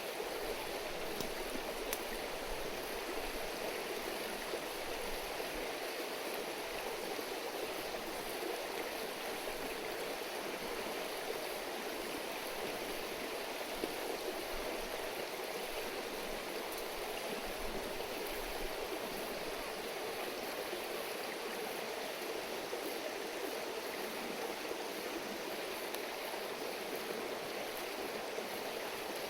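River babbling steadily, with a few faint clicks.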